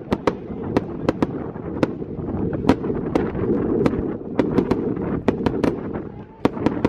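Fireworks going off: many sharp bangs and cracks in irregular quick succession, several a second, over a continuous crackling rumble.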